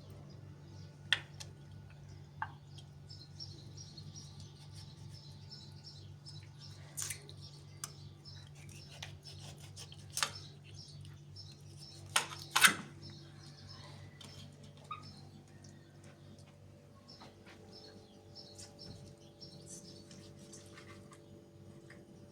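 Small birds chirping in quick repeated notes, with a few sharp clinks and knocks of household handling, over a steady low hum.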